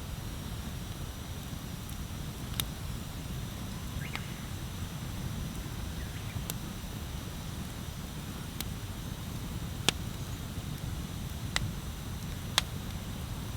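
Wood fire burning: sharp crackles and pops of burning wood every second or two over a steady low rumble, the loudest pops about ten seconds in and near the end.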